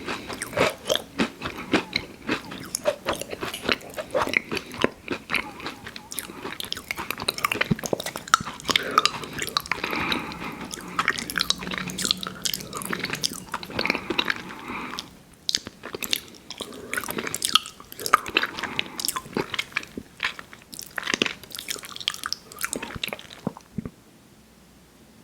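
Close-miked mouth sounds of someone biting and chewing a fast-food dessert: rapid wet clicks and crunches, with a short pause partway through, stopping shortly before the end.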